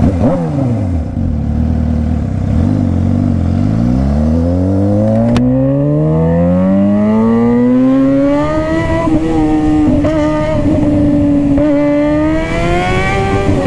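Suzuki GSX-R600 sport bike's inline-four engine pulling hard under acceleration, its pitch climbing steadily over several seconds before holding high with two brief dips near the end. A single sharp click sounds about five seconds in.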